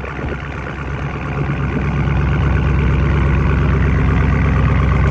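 2020 Dodge Charger Scat Pack's 392 (6.4-litre) HEMI V8 running with a deep, loud exhaust rumble, getting louder about two seconds in and holding there.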